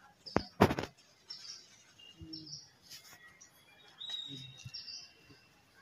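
Birds chirping in short high calls every second or so, with one loud brief clatter just under a second in.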